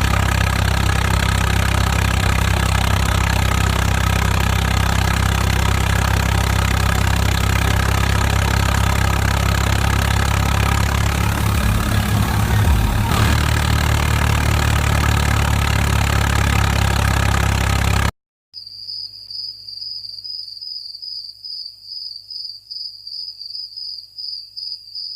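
Tractor engine running steadily, its pitch wavering briefly around the middle. It cuts off abruptly and is followed by a high, rapidly pulsing beep-like tone.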